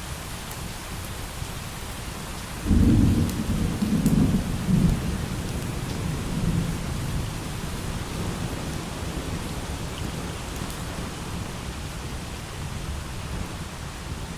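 Steady light rain with a clap of thunder: a sudden deep rumble about three seconds in that rolls in several swells for a couple of seconds and then dies away under the rain.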